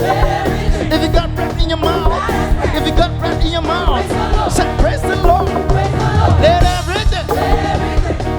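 Live band playing upbeat gospel worship music, with a steady beat under a melodic lead line that sounds like singing.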